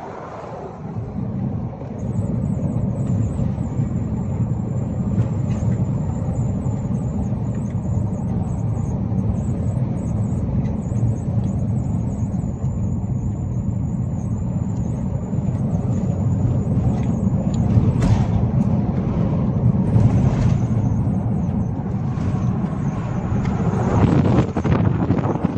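A car driving along, with steady engine and road rumble. A thin high whine runs through most of it, and there is a single sharp click near the end.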